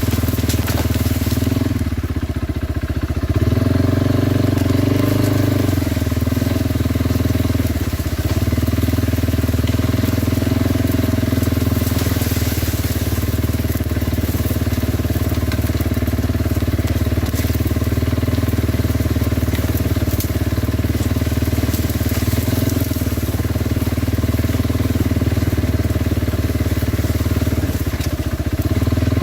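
Kawasaki Brute Force 300 ATV's single-cylinder engine running steadily while being ridden, its pitch shifting briefly a few seconds in.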